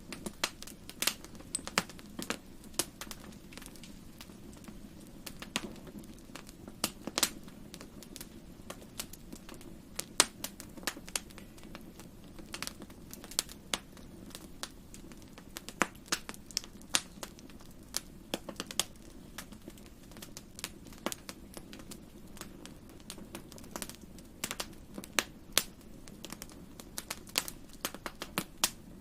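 Wood fire crackling: irregular sharp pops and snaps, some louder than others, over a steady low rumble of the flames.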